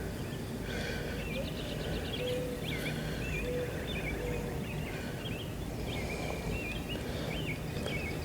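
Songbirds singing with short chirps and whistled glides, while a short buzzy electronic beep repeats about every two seconds.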